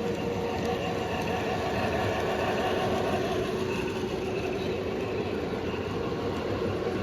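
Model train running on the layout's track: a steady electric motor hum with the rolling noise of wheels on rail.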